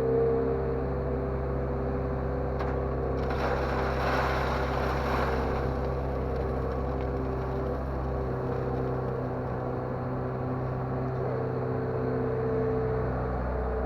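LONKING CDM307 skid steer loader's diesel engine running steadily under work. About three seconds in, a rougher rush of noise rises over it for a couple of seconds.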